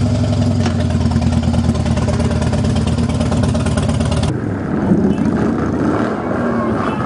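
Motorcycle engine running steadily and loudly, then an abrupt change about four seconds in to a duller, muffled mix of engine noise.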